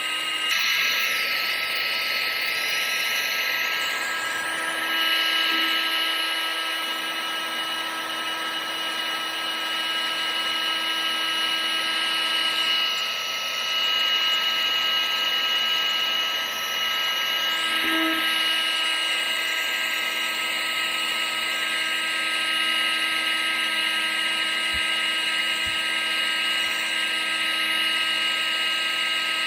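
Vacuum cleaner running steadily: a continuous motor whine over a rushing airflow hiss.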